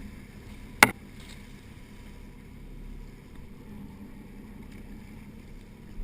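Steady low rumble of a fishing boat under way, with one sharp knock just under a second in.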